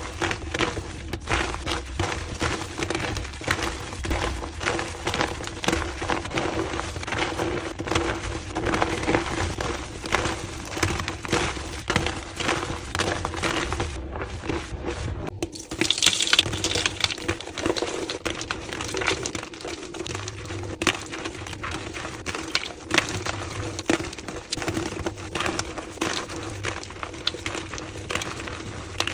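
Blocks of gym chalk crushed and crumbled by hand, played back at double speed: a dense, continuous run of crunchy crackles, broken by a short gap about halfway through.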